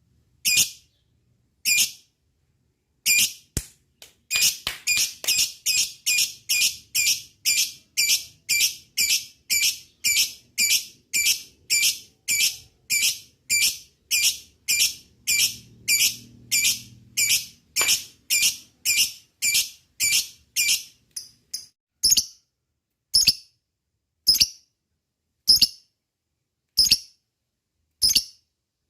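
Lovebird giving short, shrill calls in a steady series. A few come singly, then a fast run of about two a second, which slows about three-quarters of the way in to single calls over a second apart.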